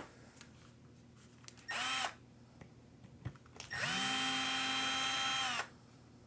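Cordless electric screwdriver running in two bursts, a short one of about a third of a second and then a steady whine of about two seconds, each winding up in pitch as it starts and winding down as it stops.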